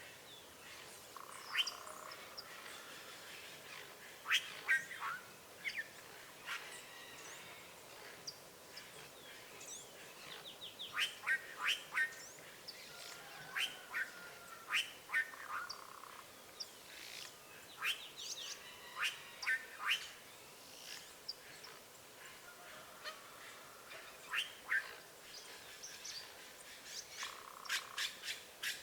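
Azure jays calling: many short, sharp calls in irregular clusters, with a few longer, harsher calls among them.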